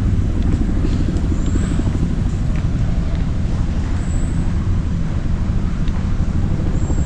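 Zoo tram running, a steady low rumble of the vehicle moving along the road.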